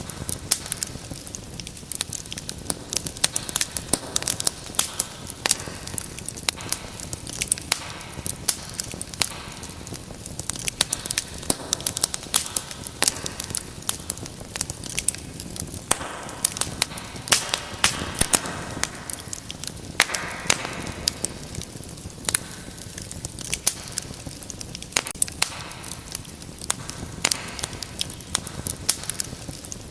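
Wood fire burning with dense, irregular crackles and pops over a steady hiss, with a brief louder hissing swell now and then.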